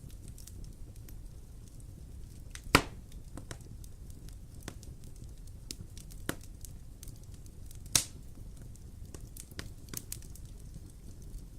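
Wood fire burning in a fireplace, crackling over a low steady rumble, with two loud sharp pops, one about three seconds in and one near eight seconds, and a few lighter snaps between.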